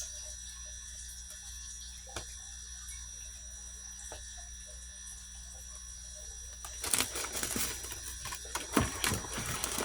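Quiet room tone with a steady faint hum and thin high whine, broken by a couple of faint clicks. About seven seconds in, a spell of rustling and clattering handling noise starts.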